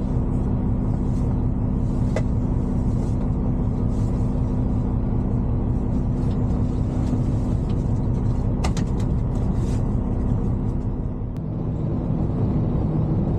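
Semi-truck's diesel engine idling steadily with a low hum, a couple of faint clicks over it.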